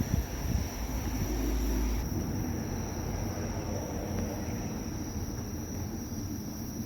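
Steady high-pitched insect chirring over wind rumbling on the microphone, the rumble strongest one to two seconds in.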